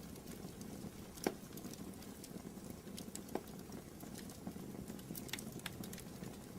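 Wood fire crackling in a fireplace: a steady low rumble of flames with a scatter of small snaps, and a louder pop about a second in and another about three seconds in.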